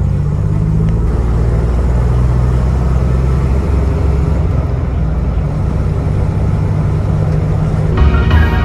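1991 Chevrolet Silverado's 4.3-litre V6 pickup under way: a steady low engine drone with road noise, its pitch shifting slightly now and then. Music comes in near the end.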